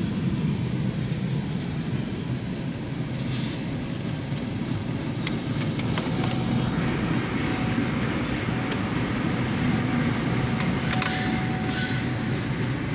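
Loaded freight train tank cars rolling past on steel rails: a steady rolling noise of the wheels with a few scattered clacks, and a faint thin squeal from about halfway through until near the end.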